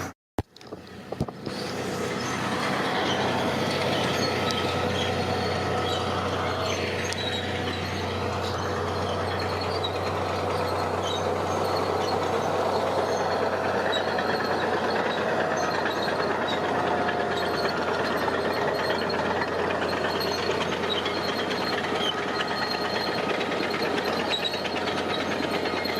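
Heavy diesel construction machinery running steadily, its engine pitch dipping and rising once about seven seconds in.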